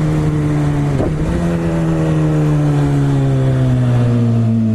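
BMW S1000RR sport bike's inline-four engine running under way; its note dips briefly about a second in, then falls slowly as the revs drop.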